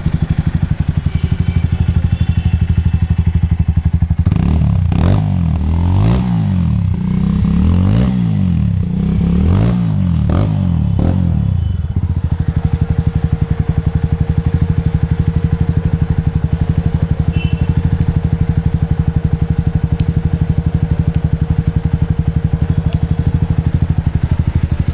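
Jawa or Yezdi motorcycle fitted with an aftermarket Razor exhaust, idling, then blipped about five times in quick succession, each rev rising and falling, before it settles back to a steady idle.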